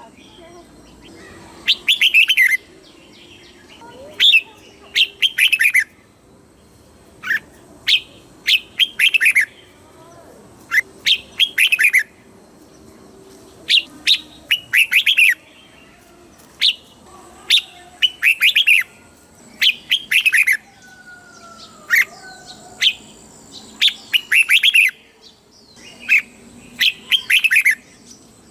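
Red-whiskered bulbul singing its southern-style master song: short, bright phrases of a few quick falling whistled notes, repeated every second and a half to two seconds.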